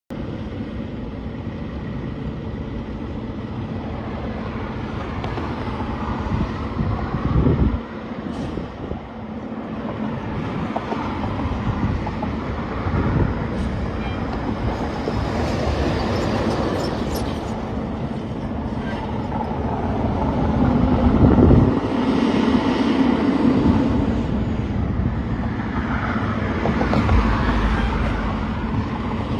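Street traffic: a steady roadway rumble with several vehicles passing close by, the loudest pass about three-quarters of the way through.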